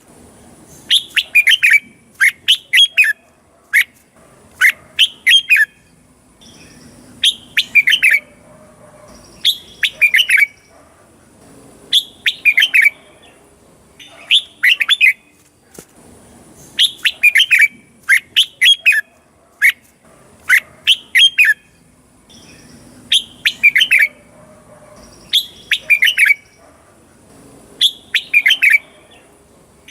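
Red-whiskered bulbul singing: short, clear phrases of a few quick notes, repeated about every two seconds with brief pauses between. This is the loud 'double' song used to train young birds and to stir up caged males.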